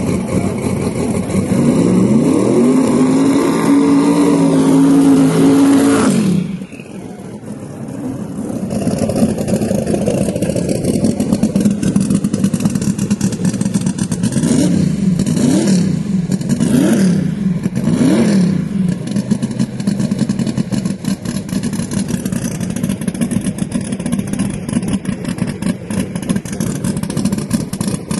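Drag car engine at full throttle. Its pitch climbs, holds high, then cuts off suddenly about six seconds in. Later four quick revs rise and fall in a row, over a steady engine rumble.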